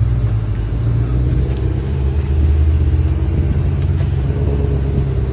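The supercharged 5.2-litre V8 of a 2020 Shelby GT500 idling steadily, deep and low, as the car creeps up to a car-carrier ramp.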